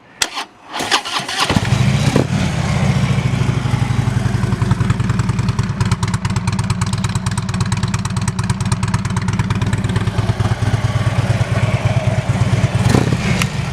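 2015 Harley-Davidson Tri-Glide's 103 cubic inch V-twin, fitted with a stage 1 kit and Vance & Hines pipes, starts about a second in and then idles with a steady, low and rumbly, pulsing exhaust note.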